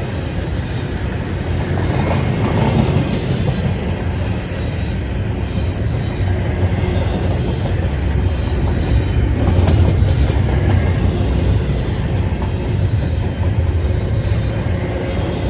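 A CSX intermodal freight train rolling past, with a steady low rumble and the clickety-clack of wheels on rail joints.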